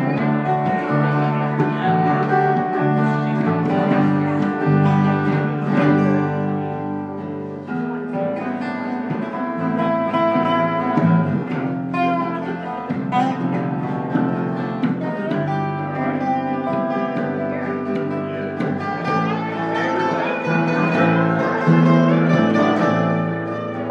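Guitar-led instrumental break in a live cover of a pop ballad, with plucked strings playing steady sustained chords and melody and no singing.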